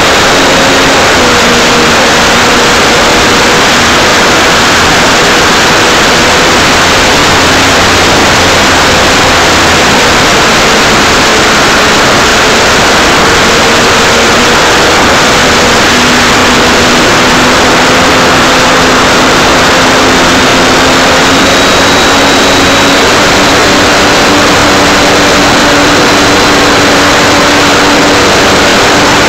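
Motor and propeller of an Art-Tech Cessna 182 RC model plane in flight, heard from a camera on its nose right behind the prop: a loud steady buzz mixed with wind rush. The pitch shifts a little now and then as the throttle changes, with a thin high whine above.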